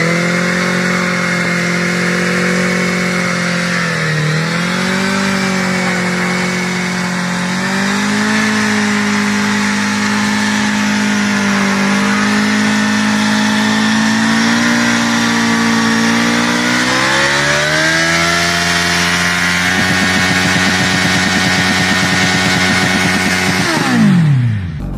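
Motorcycle engine running hard at high, fairly steady revs, its pitch wavering a little and climbing gradually, with a brief dip about four seconds in and a steep drop in pitch just before the end.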